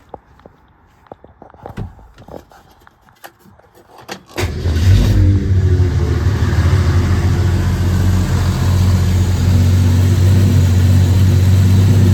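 A few faint clicks and knocks, then about four seconds in the 1966 Ford Mustang's 200 cubic inch inline six starts, flares briefly and settles into a steady idle.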